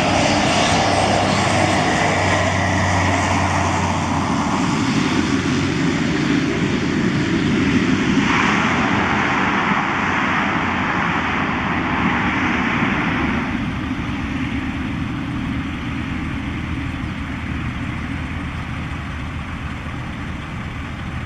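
Aircraft engine running as a light plane comes in to land, with a louder rushing noise for about five seconds near the middle, then slowly fading.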